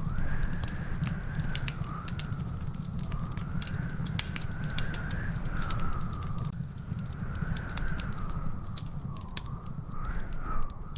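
Wood fire crackling, with frequent sharp pops and snaps over a steady low rumble. A high, wavering whistle slowly rises and falls through it.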